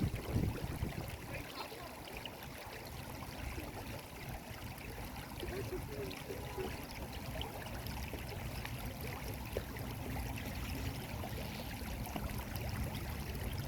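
Shallow stream water flowing and trickling steadily, with a low rumble underneath.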